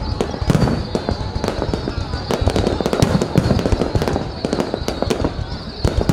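Fireworks display: a rapid, irregular string of bangs and pops going off one after another without a break.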